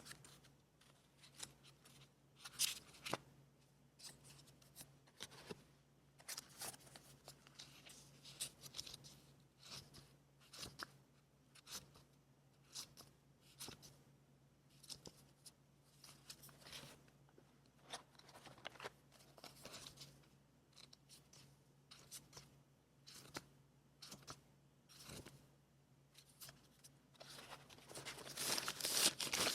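Scissors cutting paper in short, irregular snips, with paper being handled. Near the end comes a louder rustle of paper. A faint steady low hum runs underneath.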